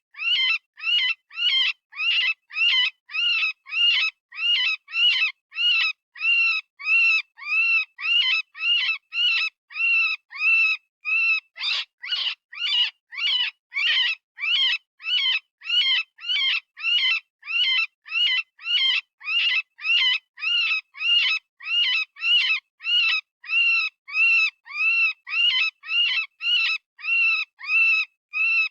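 Rabbit distress scream from predator-calling sound software: short, high squealing cries repeated about twice a second, each rising and falling in pitch. This is the call of a rabbit in pain or fear, used to draw in predators.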